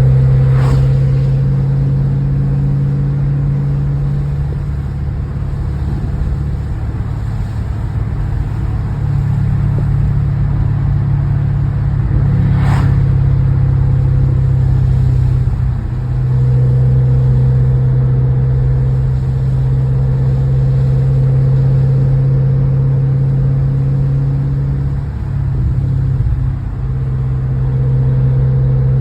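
2016 BMW 550i's twin-turbo 4.4-litre N63TU V8 through a 3-inch straight-pipe exhaust, cruising on very light throttle: a steady low exhaust drone that dips briefly twice. Two brief sharp ticks are heard, one near the start and one about halfway through.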